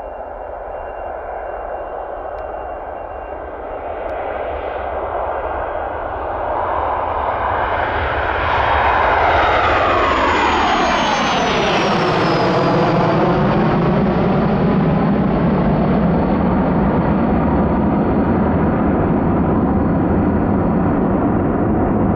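Business jet's turbofan engines passing close by: the jet roar builds over the first several seconds and then stays loud, while a high whine drops in pitch about eleven seconds in as the aircraft goes past.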